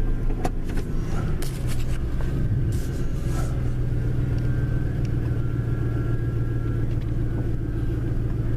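1997 Ford F-150's fuel-injected engine running steadily just after a cold start, with a few sharp clicks in the first second and a half and a change in the engine note about a second and a half in.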